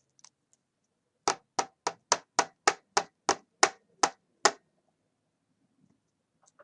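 A run of eleven sharp knocks, about three a second, slowing slightly at the end.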